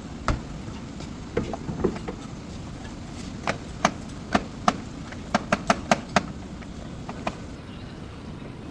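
About fifteen sharp clicks and knocks at uneven intervals, bunched together in the middle, over a steady low background noise.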